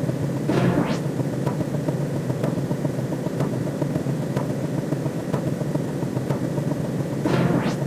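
An eerie sci-fi space sound effect: a steady low drone with soft ticks about once a second, and a brief whooshing sweep about half a second in and again near the end.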